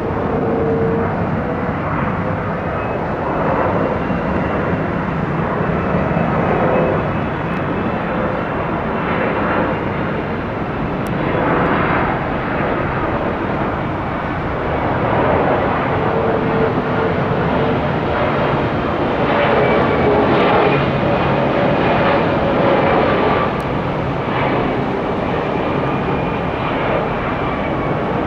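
Boeing 767-300ER's twin jet engines running: a steady, loud noise with a faint whine that drifts slightly in pitch.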